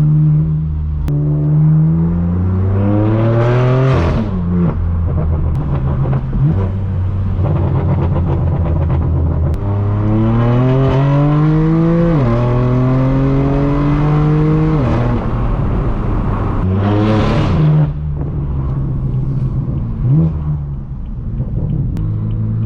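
BMW M4 F82's twin-turbo inline-six through a straight-piped AWE track exhaust, pulling hard up through the gears. The note climbs and drops sharply at quick upshifts about four and twelve seconds in, and again at fifteen. Loud bursts from the exhaust come around four and seventeen seconds.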